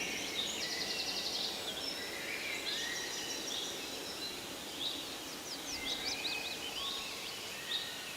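Forest ambience of several songbirds singing and calling over one another, with a fast trill about a second in and a quick run of sweeping whistled notes around six seconds, over a faint steady hiss.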